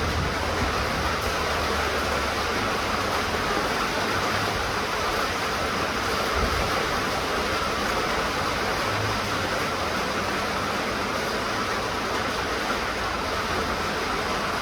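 Steady rain falling, an even hiss with no pauses, under a faint low rumble that comes and goes.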